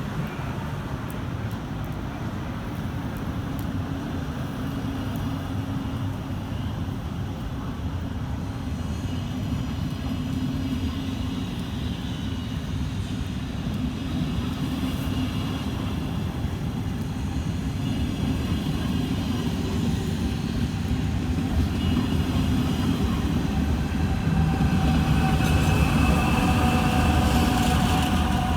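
A train running: a steady low rumble that grows louder over the last ten seconds, with faint high whining tones coming in partway through and strengthening near the end.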